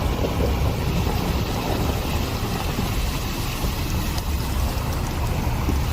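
Steady low rumbling noise with no clear pitch, strongest in the bass.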